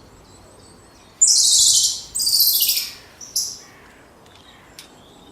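Animal calls: two loud, shrill calls, each falling in pitch, then a short third call.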